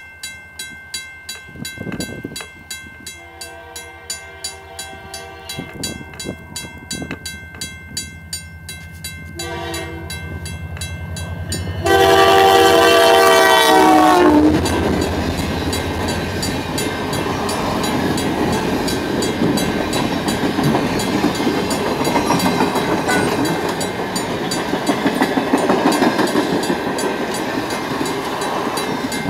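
Diesel locomotive CP 2246 approaches and sounds its air horn several times: a longer blast, a short one, then a long, loud blast as it reaches the spot. After that the train's cars rumble and clatter past on the rails. Under the approach there is a regular ringing of about two strokes a second.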